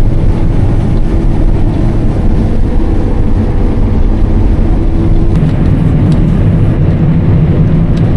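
A John Deere combine running steadily in the field, a loud low engine and machinery drone with a few faint ticks.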